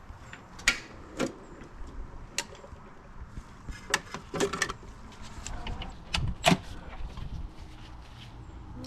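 Scattered clicks, clinks and knocks of metal tools and engine parts being handled during a motorcycle engine teardown, with a cluster of louder knocks around the middle and two sharp ones near six and a half seconds.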